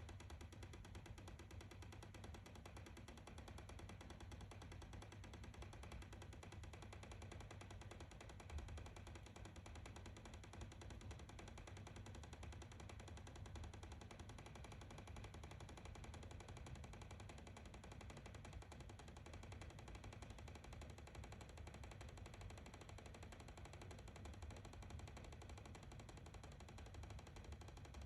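Faint, rapid clicking from inside a house wall, continuing steadily, with one slightly louder click about eight and a half seconds in; its cause is unknown.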